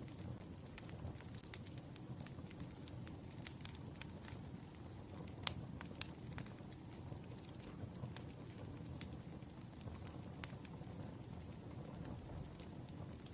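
Crackling wood fire: a low steady rumble with scattered sharp pops and snaps at irregular intervals, the loudest about five and a half seconds in.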